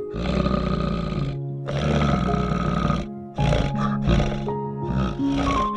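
Black bear growling in five bursts, the first two over a second long, over steady background music.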